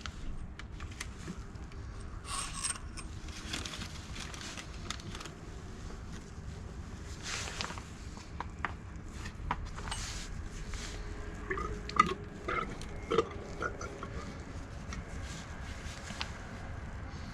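Scattered workshop handling noises: scrapes, light knocks and a few short ringing metal clinks, the loudest cluster about twelve to thirteen seconds in, over a steady low hum.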